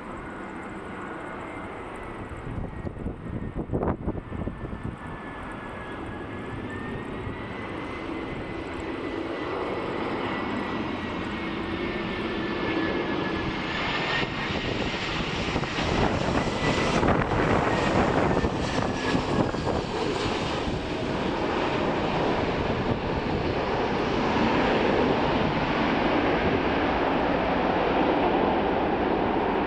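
Airbus A320-214 jet airliner's twin CFM56 turbofan engines on landing approach. A steady jet roar with a thin, wavering fan whine grows louder, peaks about halfway through and stays loud as the aircraft passes.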